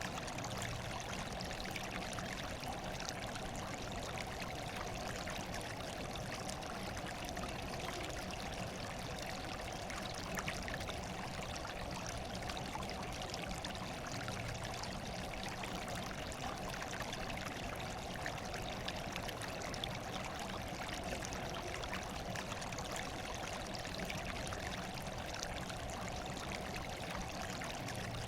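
Running water trickling and splashing steadily, an even rush with a fine patter of small splashes.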